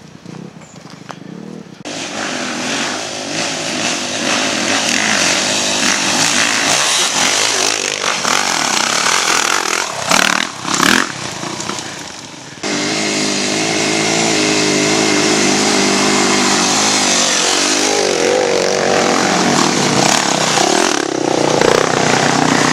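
Dirt bike engines running, with rushing noise over them; about halfway through the sound changes abruptly to a steady, even engine note.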